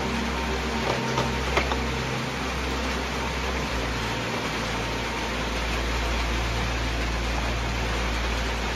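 Steady hiss of a rain sound bed under a low, droning music pad whose bass note shifts a few times. A few light clicks come in the first two seconds.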